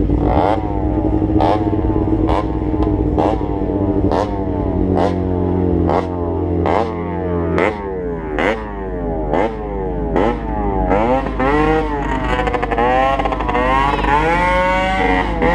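Motorcycle engine revved over and over: about once a second the throttle is blipped and the revs jump and fall away, and in the last few seconds the revs climb and drop more slowly.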